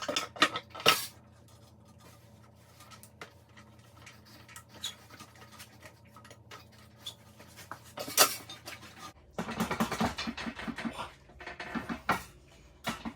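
Scattered metal clinks, knocks and scrapes of hand tools and parts being worked on. There are a few sharp knocks in the first second, and a busier stretch of clatter from about nine seconds in.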